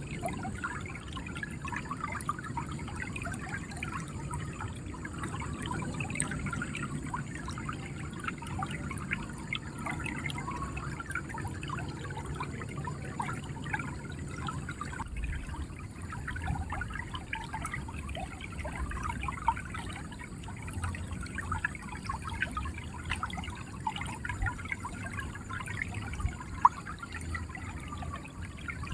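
River water flowing and gurgling steadily. From about halfway through, irregular low thumps join it.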